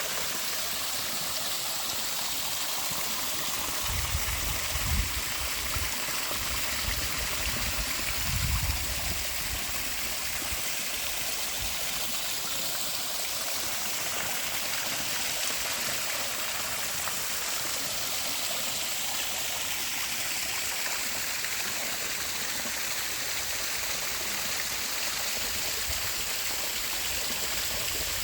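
Bush creek water running steadily over small waterfalls and cascades, an even rushing and splashing. Two brief low rumbles stand out, about four and eight seconds in.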